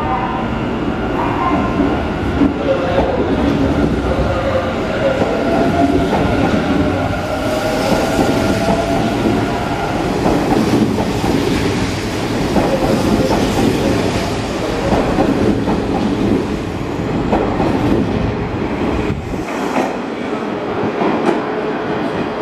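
Kintetsu electric train running through the station, its wheels clattering over rail joints and points, with whining tones during the first half.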